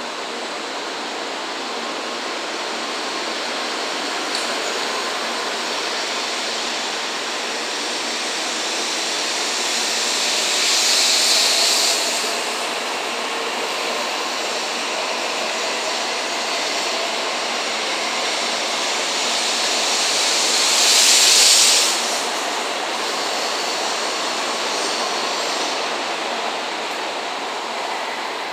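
16-car N700 series Shinkansen pulling out of the station and gathering speed past the platform: a steady rushing noise of wheels and air. Two louder hissing swells come about a third of the way in and again about two-thirds through, and the noise eases near the end as the last car goes by.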